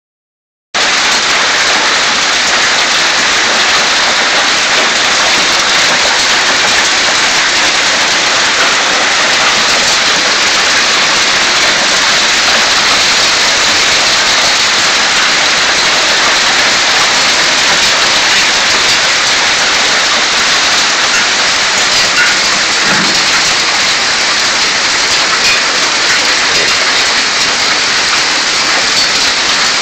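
Heavy rain mixed with hail pelting down as a steady, dense, loud noise that starts about a second in.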